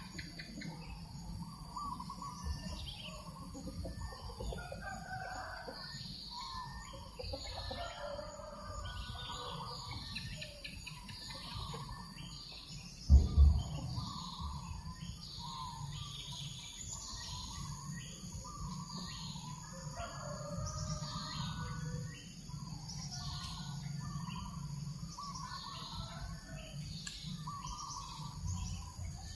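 Many birds chirping, mostly short high calls that drop in pitch, repeating throughout with lower calls beneath them, over a low breeze rumble. A brief loud low thump comes about 13 seconds in.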